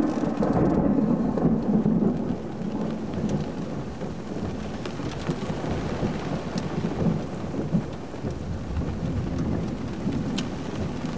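Heavy rain pouring down in a severe thunderstorm, with a low rumble of thunder that is loudest in the first two seconds and then dies down under the steady rain.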